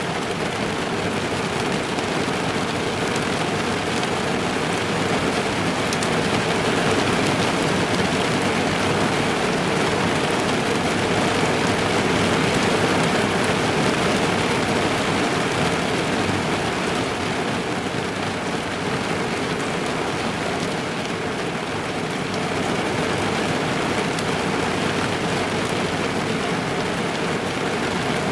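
Steady rain drumming on a car's roof and windows, heard from inside the car.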